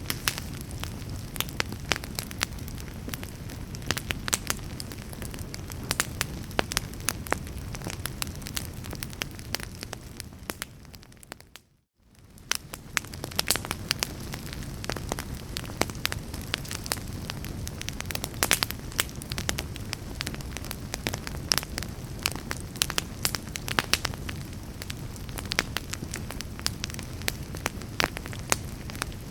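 Wood fire burning in a fireplace: a steady low rumble of flames with frequent sharp crackles and pops. About twelve seconds in, it fades briefly to silence and then fades back in.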